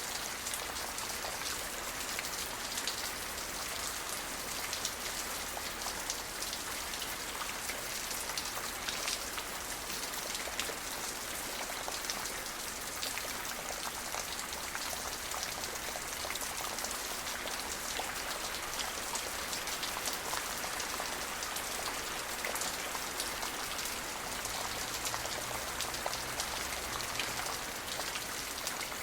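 Steady rain falling: a dense, even hiss of drops with many small, sharp drop ticks.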